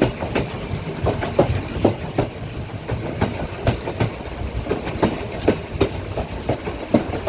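Passenger train in motion, its wheels clicking over the rail joints in a quick, slightly uneven run of about two to three clicks a second, over a steady low rumble.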